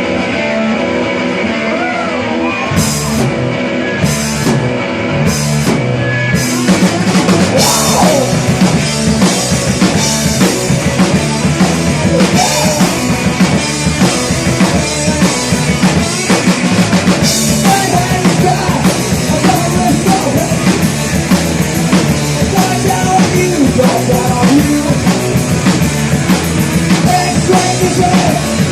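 Live rock band playing: an electric guitar riff opens, punctuated by about four cymbal crashes, then the full band with drums kicks in about six seconds in and plays on steadily.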